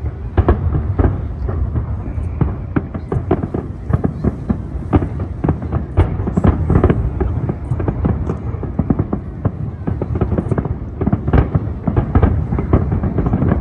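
Aerial fireworks in a continuous barrage: many shell bursts and crackling reports following one another closely with no gap.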